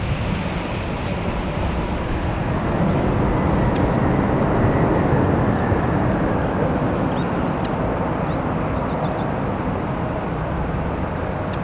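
Boeing 787-8 Dreamliner's jet engines in a steady rushing rumble as the airliner lands and rolls out, swelling to its loudest about midway, with a faint high whine sliding slightly down.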